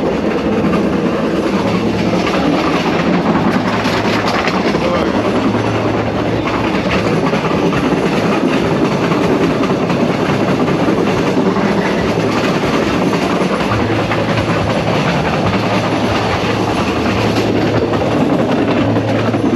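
PeruRail Vistadome passenger train running along the track at about 40 km/h: steady, loud wheel-on-rail running noise.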